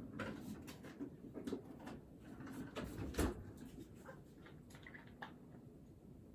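Desk handling noises: scattered light taps, clicks and rustles, with one louder knock about three seconds in.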